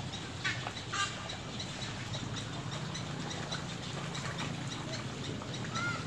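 A bird's short high call repeating evenly about three times a second over a low steady hum, with two short knocks in the first second and a brief rising-and-falling chirp near the end.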